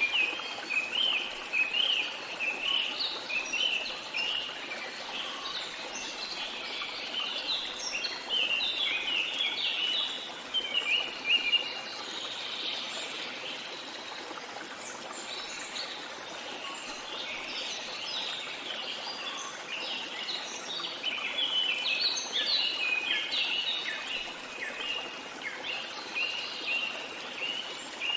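Small songbirds chirping in quick runs of high, short notes, in two long bouts with a lull a little before the middle, over a steady rushing hiss of running water.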